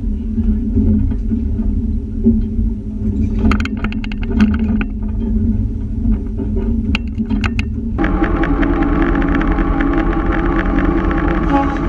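A diesel switcher locomotive's engine runs with a steady low rumble and a few clicks and clacks. About eight seconds in, the sound suddenly becomes louder and fuller, with several steady pitches on top.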